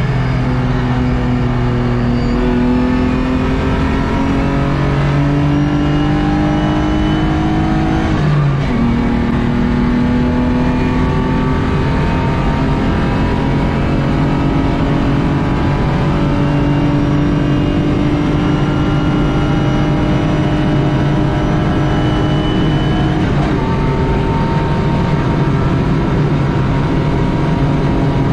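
BMW E36 race car's engine heard from inside the stripped cabin, pulling hard with its note climbing steadily, dropping sharply at an upshift about eight seconds in, then climbing again, over constant road and wind noise.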